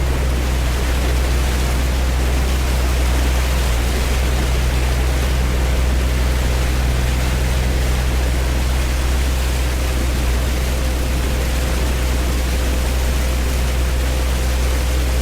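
Vehicle engine running at a steady speed: a constant low drone under an even rushing noise that does not change.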